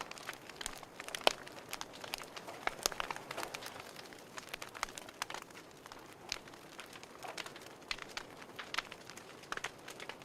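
Wood fire crackling: irregular sharp pops and snaps over a soft hiss, with one louder pop about a second in.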